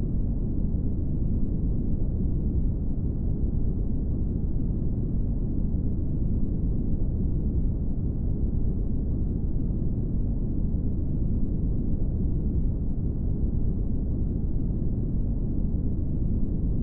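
Brown noise: a steady, deep rushing hiss, strongest in the bass and dull in the treble, unchanging throughout.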